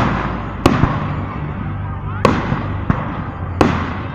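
Fireworks bursting overhead: four sharp bangs at irregular intervals of about a second, each trailing off in a fading rumble.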